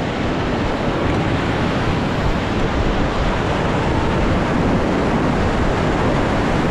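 Steady rush of river rapids, heard from a raft, with wind noise on the microphone.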